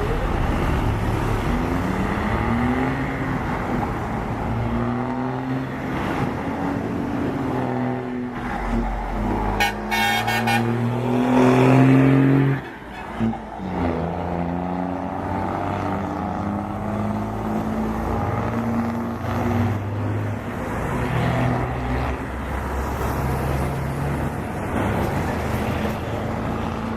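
Car engine revving, its pitch climbing and dropping back again and again as the car pulls away, loudest about halfway through. A short burst of rapid high beeping comes just before the loudest rev.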